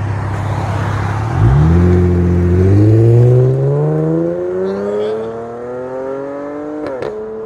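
Dodge Challenger 3.6-litre V6 with an aftermarket exhaust idling, then pulling away about a second and a half in, its exhaust note rising steadily as it accelerates and growing fainter after about three seconds. A short click sounds near the end.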